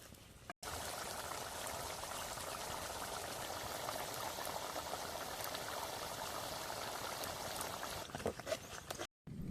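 Quail curry boiling in a cooking pot, a steady bubbling hiss flecked with small pops. It starts abruptly about half a second in and cuts off just before the end.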